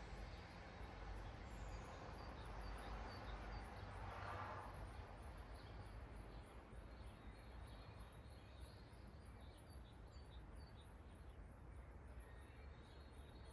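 Faint early-morning outdoor ambience: small birds chirping, over a very high thin note repeated evenly about three times a second, with a low steady background rumble. A brief swell of noise passes about four seconds in.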